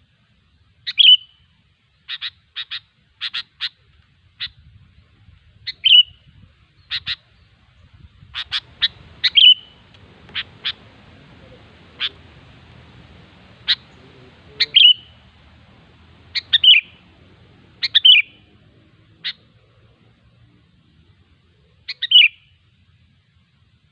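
Sooty-headed bulbul calling: short, sharp chirps and clicks repeated at irregular intervals of a second or two, some with a quick downward slur.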